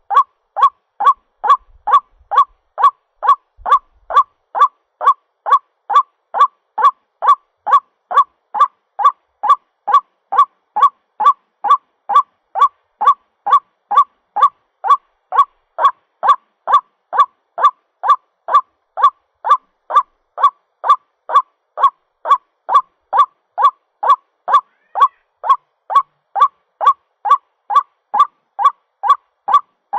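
White-breasted waterhen's 'ruak-ruak' call, short harsh notes repeated at an even pace of about two a second, played as a lure call to attract its mate.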